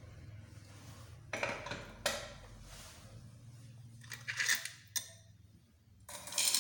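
Small metal engine parts clinking and clattering against each other and a hard surface, in about five separate bursts, the loudest in the second half.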